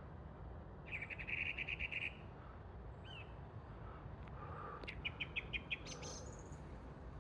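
Song thrush singing: a quick run of repeated notes about a second in, then a second phrase of repeated notes about five seconds in that ends on a higher note.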